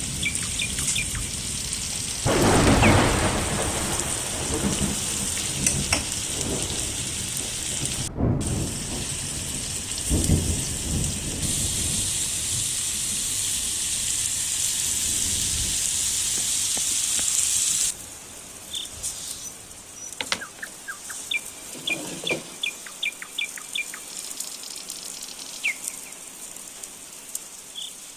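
Food sizzling in a saj pan over a wood fire, a steady hiss with a low rumble underneath. About eighteen seconds in it cuts to quieter outdoor ambience with birds chirping.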